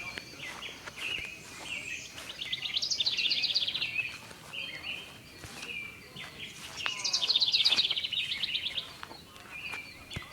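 Wild songbirds singing: short chirps repeat throughout, and twice a loud, rapid trill of fast repeated notes lasts about two seconds each, about two seconds in and again about seven seconds in.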